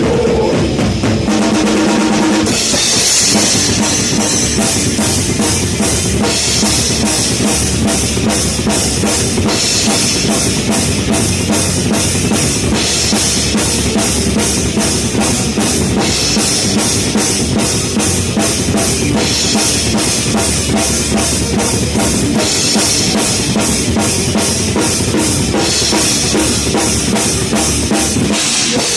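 Full heavy metal band playing, with the drum kit loudest: a fast, steady stream of kick-drum and snare strokes under repeated crashing cymbals, guitars and bass behind.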